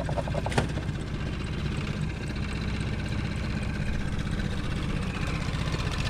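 An engine running steadily at idle, with a single sharp click about half a second in.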